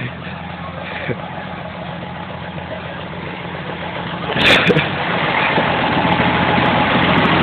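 Deuce-and-a-half army truck engine running at a steady idle. About four and a half seconds in there is a sudden loud burst of noise, after which the engine sound grows steadily louder.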